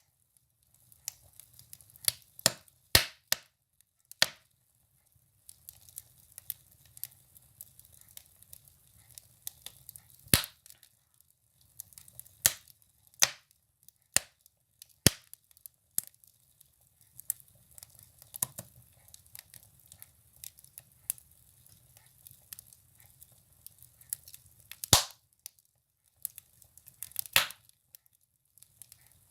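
Firewood burning in a wood stove: irregular sharp crackles and pops, with louder snaps about ten seconds in and twice near the end, over a faint low rumble.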